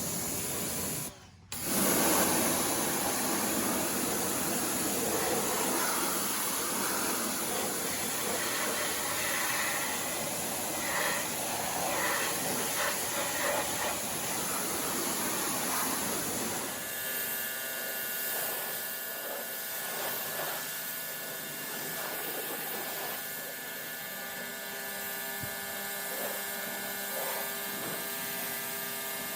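Pressure washer with a 40-degree tip spraying water onto a pickup truck, a steady hiss that breaks off briefly about a second in. About two-thirds of the way through it gives way to a quieter steady hum with faint tones.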